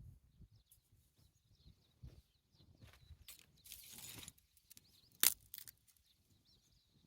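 Quiet outdoor handling sounds: a brief crinkling rustle near the middle and one sharp click a little after, over faint bird chirps.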